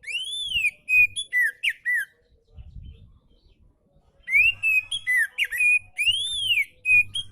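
Oriental magpie-robin singing: clear, whistled, arching and sweeping notes in two phrases with a pause of about two seconds between them.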